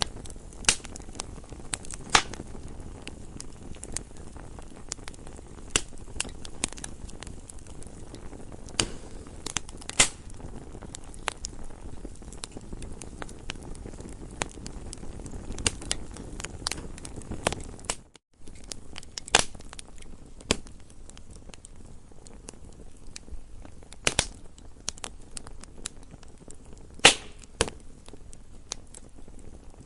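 Wood campfire crackling: irregular sharp pops and snaps, a few of them loud, over a steady low rush of the burning fire. The sound cuts out for a split second a little past halfway.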